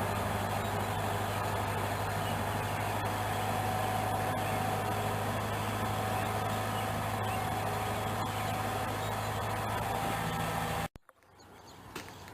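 Large tractor engine running steadily, with a deep hum and a steady higher tone over it. It cuts off abruptly about eleven seconds in, leaving faint outdoor background and a single click.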